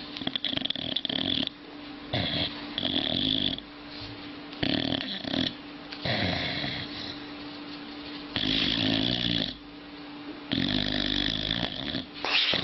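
A dog snoring, one snore roughly every two seconds.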